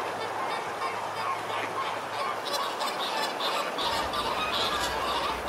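A flock of flamingos honking and gabbling: a dense chorus of overlapping goose-like calls, with single calls standing out a few times a second from about two seconds in.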